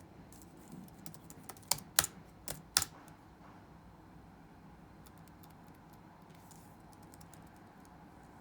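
Typing on a computer keyboard: a few light keystrokes, then four louder, sharper key strikes around two seconds in, and sparse faint keystrokes later, over a low steady room hum.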